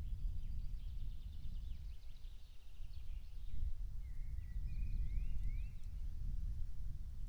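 Songbirds singing in the countryside: a quick high trill in the first few seconds, then a few short rising phrases a little past the middle, over a steady low rumble.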